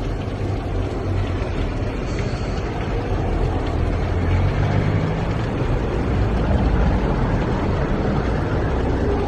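Traffic on a rain-wet city street: vehicle engines running and tyres on the wet road. It gets louder through the middle as a vehicle passes close by.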